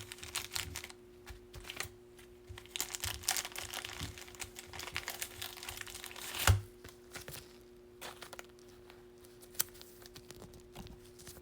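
Baseball card packs and cards being handled: irregular rustling, crinkling and light clicks, with one sharper snap about six and a half seconds in, over a faint steady hum.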